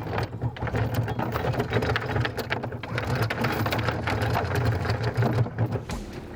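Anchor chain running out over the bow: a rapid metallic clatter over a steady low hum, stopping abruptly near the end.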